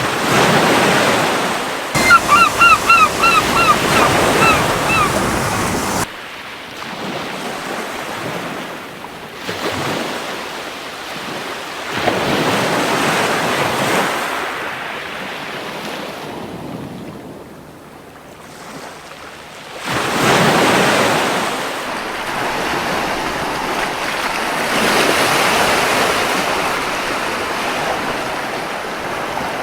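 Gentle waves breaking and washing up a beach, the surf swelling and fading every several seconds. A few seconds in, a seagull gives a rapid series of short calls.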